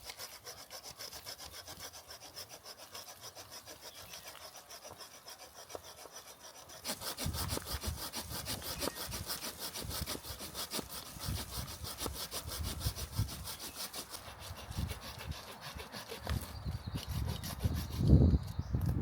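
Hand saw cutting through wood in steady, rhythmic strokes. The strokes are fainter at first and grow louder about seven seconds in, with a few heavier thuds near the end.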